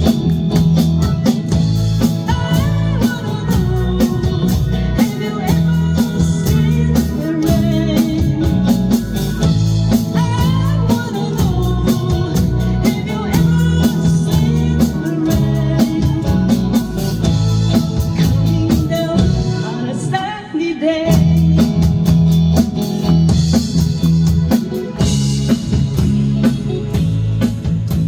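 Live band playing a rock song with singing over a steady drum beat and bass. The music thins out briefly about twenty seconds in.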